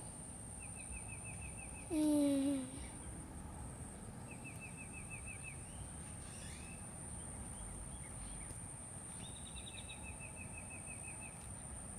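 A small bird singing a rapid trill of evenly spaced notes, repeated three times, over outdoor background noise. About two seconds in, a short louder voice-like sound falling in pitch cuts across it.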